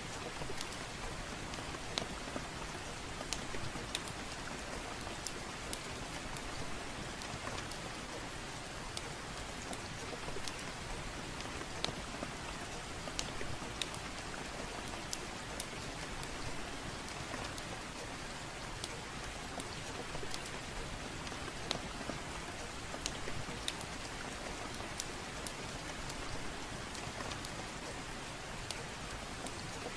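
Soft, steady rain with scattered sharp crackles from a wood fire over it.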